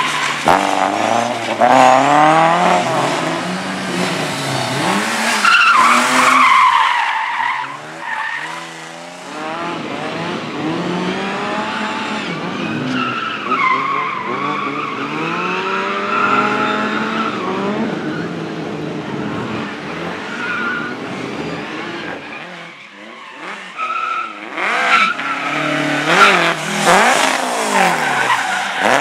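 Slalom competition car driven hard, engine revving up and falling back again and again, with tyres squealing and skidding. There is a louder, harsher spell near the end.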